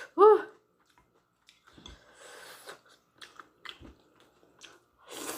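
Close-miked chewing of instant noodles, with wet mouth clicks and short noisy slurps scattered through. A short, loud hummed 'mm' of enjoyment comes right at the start.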